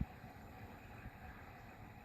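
Hoover Vision washing machine running the hidden cycle that the owner takes for a diagnostic program: a faint, steady low hum and hiss, with a short low thump right at the start.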